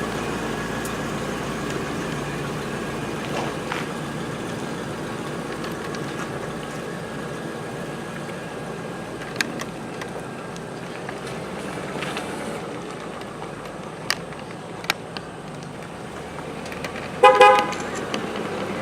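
Steady background rumble with a few light knocks, then a vehicle horn toots briefly near the end; the horn is the loudest sound.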